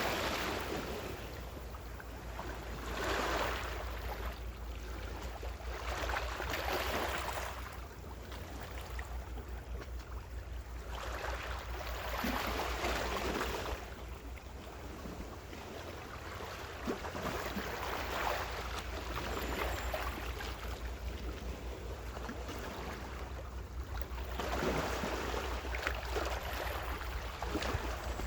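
Gentle ocean waves washing onto the shore, a swell of surf every few seconds, over a steady low rumble.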